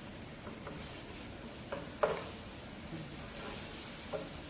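Tomato paste and onions frying in olive oil in a pan, with a steady sizzle, while a spoon stirs and knocks against the pan three times, loudest about two seconds in.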